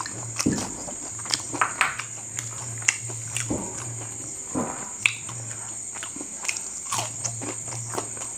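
Close-miked chewing of a crisp fried sabudana pakora: irregular small crunches and mouth clicks, with a few softer squelchy sounds. A steady high-pitched whine runs underneath.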